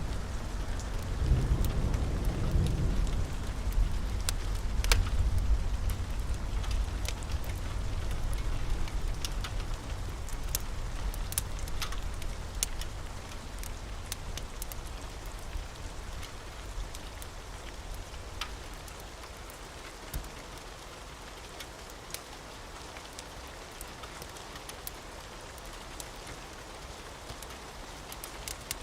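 Steady rain with a low rumble of thunder that slowly dies away over the first ten seconds or so. Scattered sharp clicks and ticks sound throughout.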